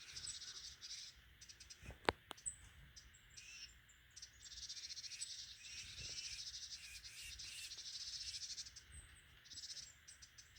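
Insects trilling in a high, fast-pulsing buzz that comes and goes, with a few faint chirps from small birds and one sharp click about two seconds in.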